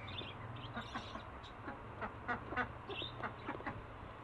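Ducks quacking, many short calls at irregular intervals, over a low steady hum.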